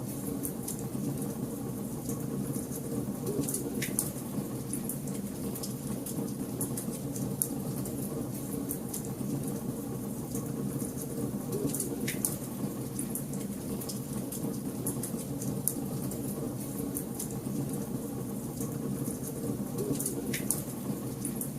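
Wood fire in a fireplace crackling steadily: a dense hiss of small crackles with a few sharper pops, about four, twelve and twenty seconds in, over a low steady rumble.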